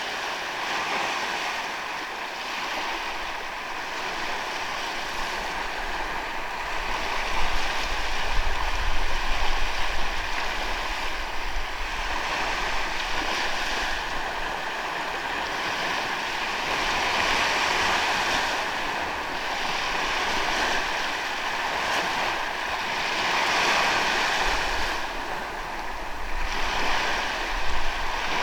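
Ocean waves breaking and washing onto a sandy beach, the surf swelling and easing every few seconds.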